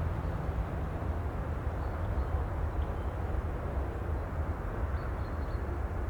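Steady low rumbling sea-and-wind ambience with no breaks or swells, with a few faint, brief high chirps about two seconds in and again around five seconds.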